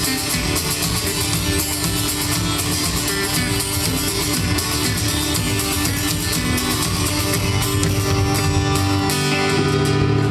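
Live band playing an instrumental passage with strummed guitar.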